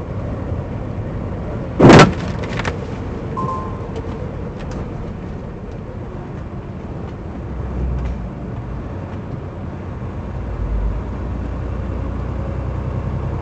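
Steady rumble of a vehicle driving, heard from inside the cab, with one loud, sharp bang about two seconds in: a vehicle collision in an accident caused by a snowplough. A few smaller knocks follow.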